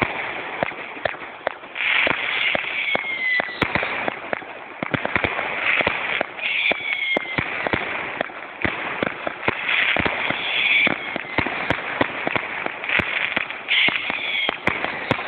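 Fireworks going off: a rapid, irregular run of sharp cracks and bangs, with hissing bursts about every four seconds, some carrying a short falling whistle.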